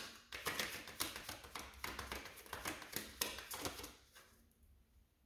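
Tarot cards being shuffled and handled: a quick, uneven run of papery slaps and taps, several a second, that stops about four seconds in.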